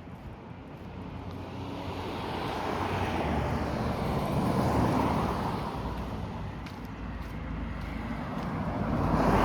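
Highway traffic passing: one vehicle swells up and goes by about halfway through, and a second one comes up loud near the end.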